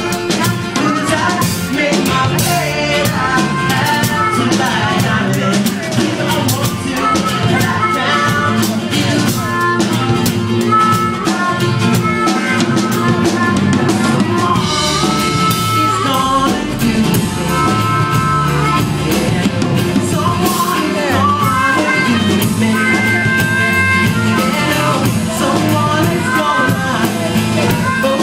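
Live band music with a full drum kit keeping a steady beat, held instrumental lines over it and some singing.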